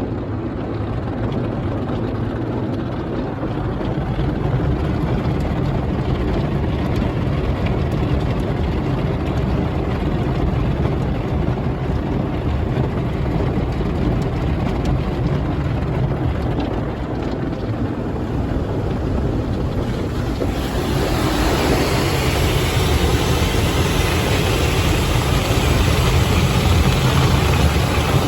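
Belanger FreeStyler soft-touch car wash running its soft-touch cycle, heard from inside the car: cloth brushes scrubbing over the body with running water and a steady low machine rumble. About twenty seconds in, the hiss grows louder and brighter.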